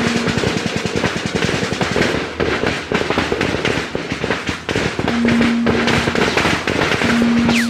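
Heavy gunfire, many shots in rapid, overlapping volleys, typical of automatic weapons in a firefight. A steady low tone sounds twice in the second half.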